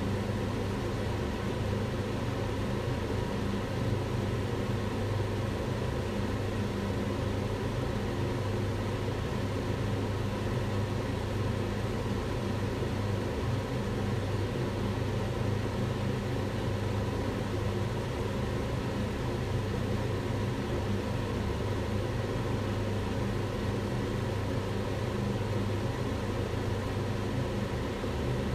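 Kitchen range hood fan running steadily, a constant whooshing air noise with a low motor hum.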